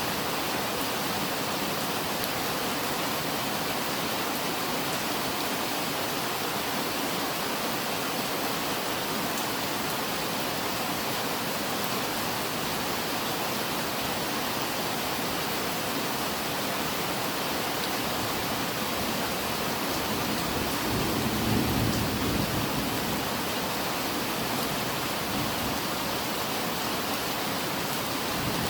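Steady, heavy rain falling, with a brief low rumble swelling about three quarters of the way through.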